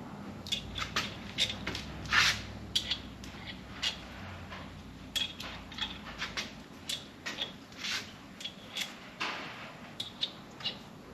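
Hand tools and metal engine parts clicking and clinking in an irregular run of light taps, some with a short metallic ring, with two brief rasping sounds about two seconds in and near nine seconds in.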